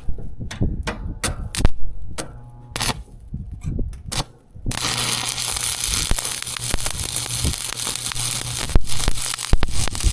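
Electric welding arc, sharp irregular clicks for the first few seconds, then a dense, steady crackle of the arc running from about halfway in, over a low steady hum.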